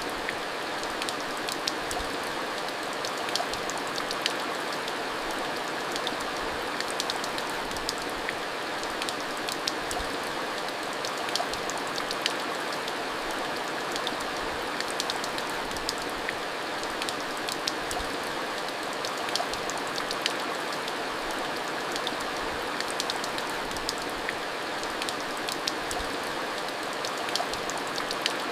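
Steady rainfall: an even, unbroken hiss of rain with frequent sharp ticks of individual drops striking a surface scattered all through it.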